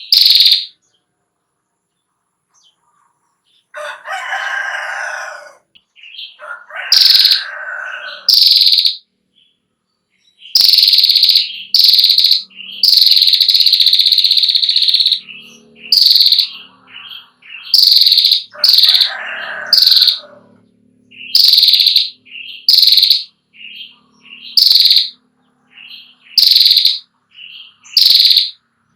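A female prenjak klawu (prinia) giving its rapid, harsh 'ngetir' call in repeated high bursts, about a dozen in all, one of them held longer near the middle. A few lower, rougher calls come in between.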